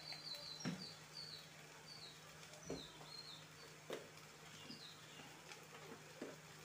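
Faint chirping of small birds: a quick run of short high chirps in the first second and a half, then scattered single chirps, with a few soft knocks in between.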